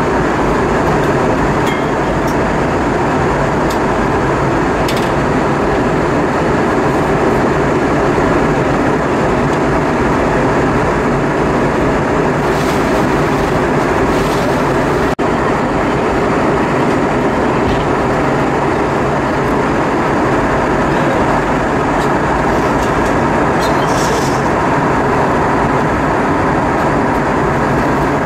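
Steady cabin noise inside an Airbus A320-232 airliner in flight: the even rush of airflow and engine noise, with a few faint clicks.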